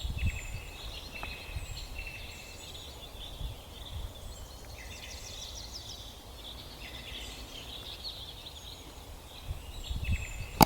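Small birds chirping and trilling in repeated short phrases over an outdoor background of low wind rumble, with a sharp click near the end.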